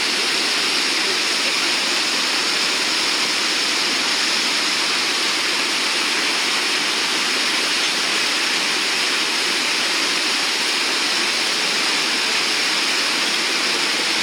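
Whitewater rapids of the Nantahala River rushing in a loud, steady roar.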